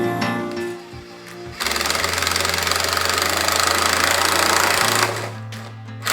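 A cordless screw gun runs for about three seconds in the middle, a dense buzzing rattle, driving screws into a bracket on a barn rafter. Background music plays before and after it.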